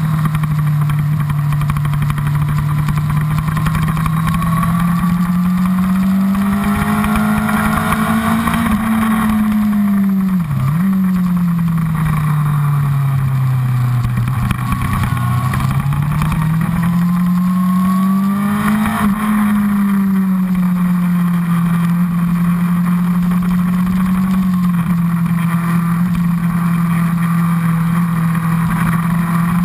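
Honda CBR1000RR inline-four engine at track speed, heard from a camera on the fuel tank. Its note rises and falls slowly as the rider opens and closes the throttle, with one quick drop and recovery about ten seconds in. A steady rush of wind runs under it.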